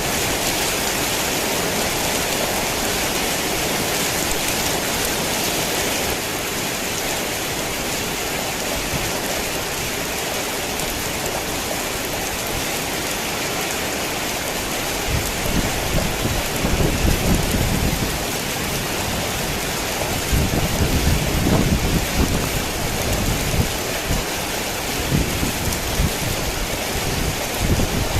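Heavy rain falling with a steady hiss, joined about halfway through by low rolling rumbles of thunder that swell and fade a few times.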